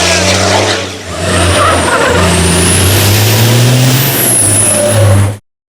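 Racing car engine running hard, its pitch climbing slowly after a brief dip about a second in, with a high whine gliding above it; the sound cuts off suddenly near the end.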